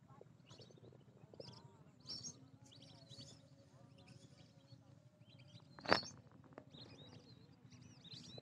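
Small birds chirping and calling intermittently over a low outdoor background hum, with a single sharp click or knock about six seconds in.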